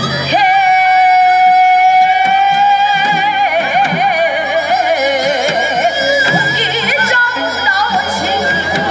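Korean traditional music with singing and instruments: a high, steady note is held for about three seconds, then the melody moves on in ornamented, wavering phrases.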